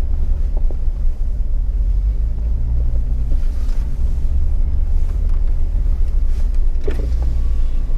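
Jeep Wrangler running on an off-road trail: a steady low engine and drivetrain rumble.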